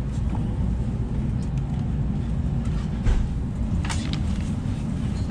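Steady low rumble and hiss of a Shinkansen bullet train running at speed, heard inside the passenger car, with a couple of brief clicks about three and four seconds in.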